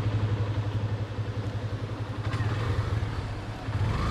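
Motorcycle engine running at idle with a steady, fast pulsing beat. A rising tone comes in near the end.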